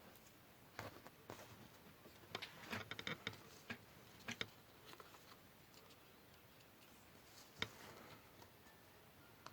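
Scattered light clicks and taps of paper and small craft tools being handled on a tabletop during papercraft work. There is a quick cluster of taps two to three seconds in and a single sharper tap near the end.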